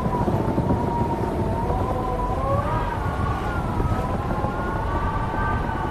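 Howling wind: several whistling tones that waver and drift slowly up and down together, over a steady low rushing noise.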